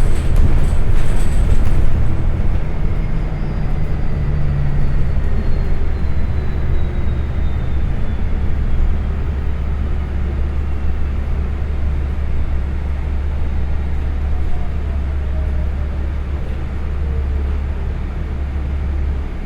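Transit bus running along the road, heard from inside the cabin: a steady low drone with a faint whine that slowly falls in pitch, the drone dropping away near the end.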